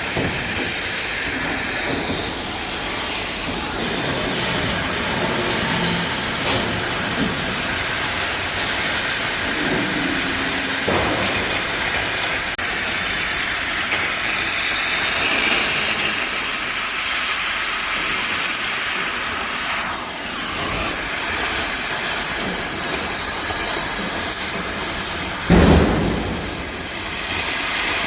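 A loud, steady hissing noise, with a short louder knock about 25 seconds in.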